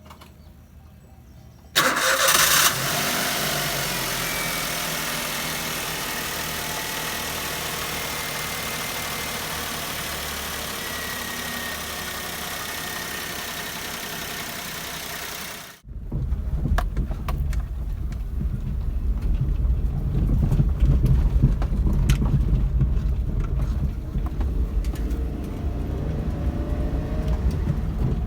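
Maruti Suzuki K-series petrol engine cranked and catching about two seconds in, then running steadily at a fast idle that eases slowly. After an abrupt break about halfway through, a deeper, uneven rumble of the car follows.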